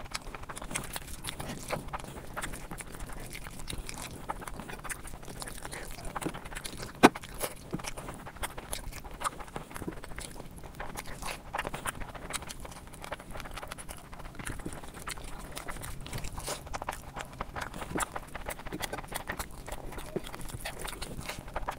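Close-miked eating sounds: a person chewing and biting food, a steady stream of small mouth clicks and crunches, with one sharp, much louder click about seven seconds in.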